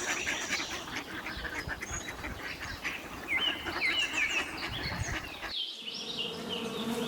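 Ducks calling, with small birds chirping among them. About five and a half seconds in, the sound cuts abruptly to another recording with a steady low hum underneath the calls.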